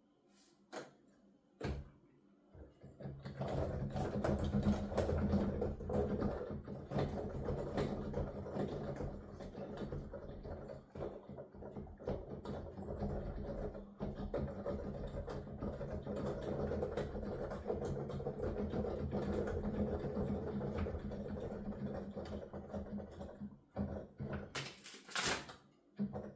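Digital piano played silently through headphones: only the mechanical clatter and thumping of the keys is heard. A dense, fast run of key knocks lasts about twenty seconds, with a few single clicks before it and a short clatter near the end.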